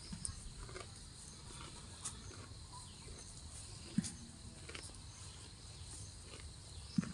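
A cow grazing: scattered short crunches and rips of grass being torn and chewed, with two short low thuds about four and seven seconds in.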